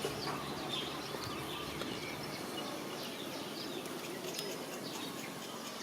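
Small birds chirping in short, scattered calls over a steady hiss of outdoor background noise.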